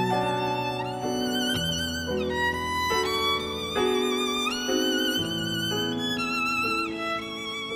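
Background music: a violin playing a slow melody of held notes with vibrato over sustained lower accompanying notes.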